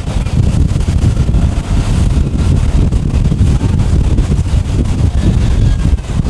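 Wind buffeting the microphone: a loud, fluttering low rumble that drowns most other sound.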